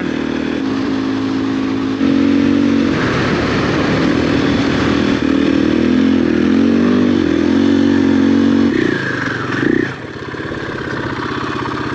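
Motorcycle engine running under way, picking up revs and getting louder about two seconds in, its pitch rising and falling as the bike labours through soft ground, then easing off near the end.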